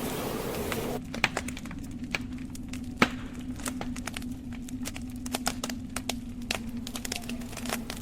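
Wood logs burning in a fireplace, crackling with many irregular sharp pops and one louder pop about three seconds in, over a steady low hum. A hissing rush of wind cuts off abruptly about a second in.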